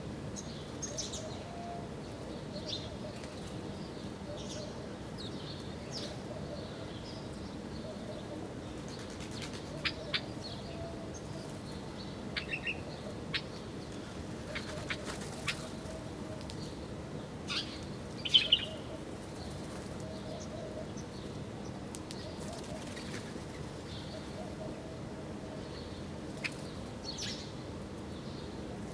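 Wild birds chirping with short, scattered high calls, the loudest about two-thirds of the way through, along with a few sharp clicks, over a steady low background hum.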